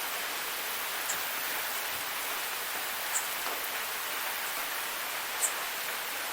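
Waterfall rushing steadily, with three short high chirps over it, about a second, three seconds and five and a half seconds in.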